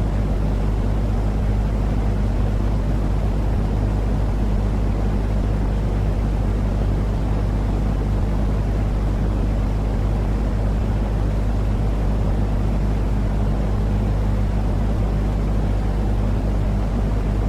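Steady white-noise sleep sound for calming babies: an unbroken deep noise, strongest in the bass, with a constant low hum under it and no changes.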